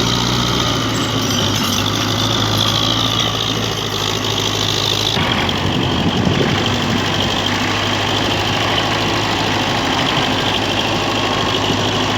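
Tractor diesel engine idling steadily, with an abrupt change in its higher sound about five seconds in.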